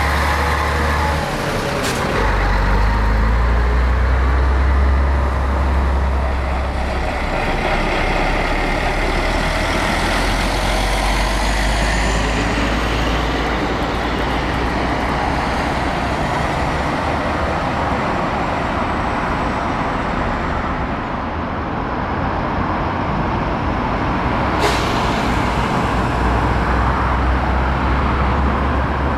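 Heavy diesel trucks running and passing at low speed, with a deep engine rumble that eases in the middle and returns near the end. Two brief sharp hisses of air, about two seconds in and again near the end, typical of truck air brakes.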